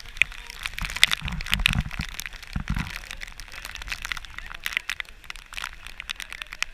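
Heavy rain crackling and pattering close on the microphone, mixed with shovels digging and scraping into a trailer-load of wet sand. A few dull low thumps come between about one and three seconds in.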